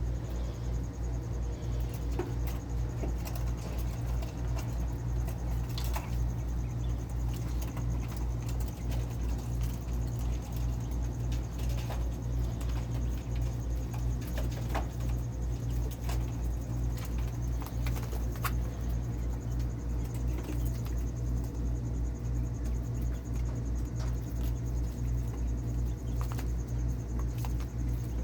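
Coturnix quail making scattered soft peeps, small clicks and scratches, over a steady low hum.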